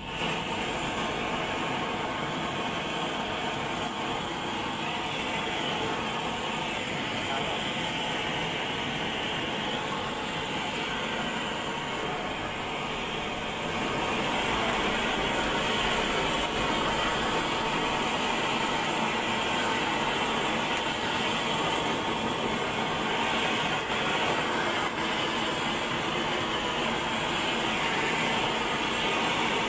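Steady hissing noise that begins abruptly and grows a little louder about halfway through.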